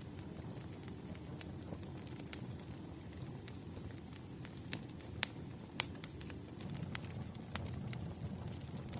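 Wood fire crackling: irregular sharp pops and snaps over a steady low rumble of burning logs, with two louder pops a little past the middle. A faint thin high whistle sounds for the first few seconds.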